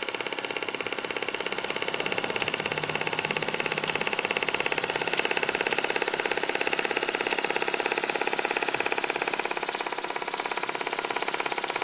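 Stevens Model Dockyard model marine steam engine, a 5/8-inch bore and stroke screw engine, running steadily under steam with a fast, even beat.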